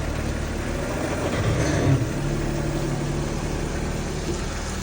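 BMW E39's engine running at idle, with a brief louder change about two seconds in.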